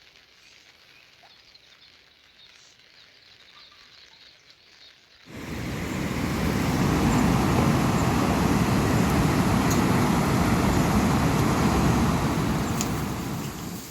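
A loud, steady rushing noise starts suddenly about five seconds in and fades away near the end; before it there is only faint background.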